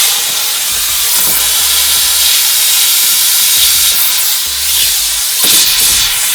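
Compressed air rushing through an AirLift venturi coolant vacuum tool: a loud steady hiss as it pulls a vacuum on the cooling system to check it for leaks.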